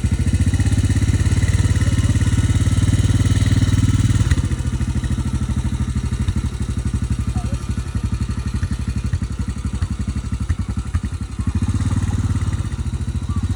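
Small vehicle engine running under load with an even firing pulse. It works harder for about the first four seconds, eases off, then picks up again near the end.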